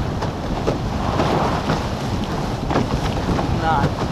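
Wind buffeting the microphone and water rushing past the hulls of a racing catamaran under sail, a steady loud rush with scattered short slaps.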